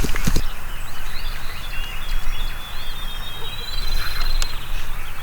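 Songbirds chirping, with one long, even trill lasting about three seconds in the middle, over a steady low rumble.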